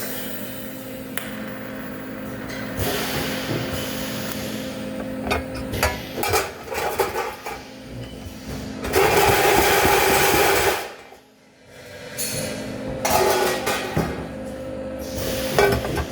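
Metalworking shop noise: a steady machine hum with scattered metal clinks and knocks. About nine seconds in, a louder rushing noise runs for about two seconds and cuts off sharply.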